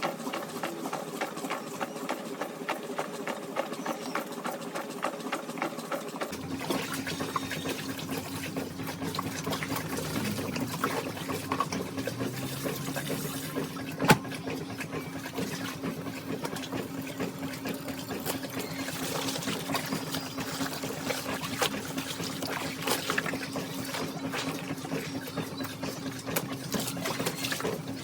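Washing machine running with a fast mechanical rattle; about six seconds in, the sound changes to a steady hum with water rushing in, as the machine fills. There is a single sharp click about halfway through.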